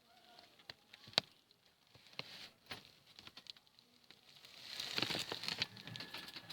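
Pet lovebirds moving about, making scattered sharp taps and clicks, with a longer rustling flurry about five seconds in.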